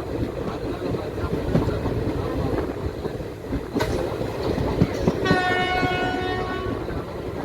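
Passenger train running along the line, wheels rumbling and clattering on the rails, with a single sharp click about four seconds in. About five seconds in, the train's horn sounds one steady blast for nearly two seconds.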